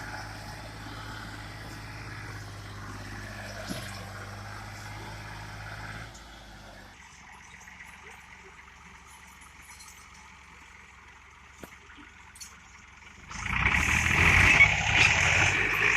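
Tractor diesel engine running steadily, a low, even hum. It drops away to a quieter stretch about six seconds in, and a much louder, rough noise comes in about thirteen seconds in.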